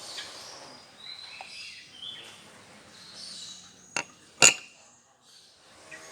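Two sharp metallic clinks about half a second apart, the second louder and ringing briefly, as a metal tool or part knocks against metal during the speedometer teardown.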